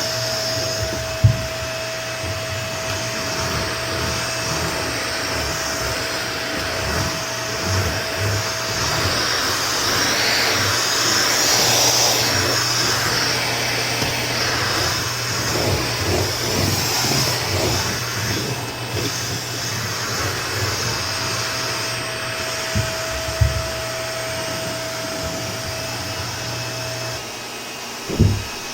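Vacuum cleaner running steadily while floors are vacuumed, with a few sharp knocks, the loudest near the end.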